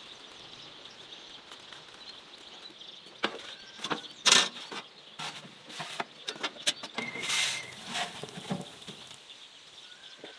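Irregular clicks, knocks and clatter with two short, louder rustling bursts, over a faint steady high hiss of outdoor background.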